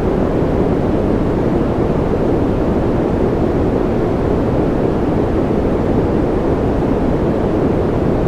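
Steady white-noise track: an even, unchanging rushing hiss, weighted toward the low and middle range with little top end.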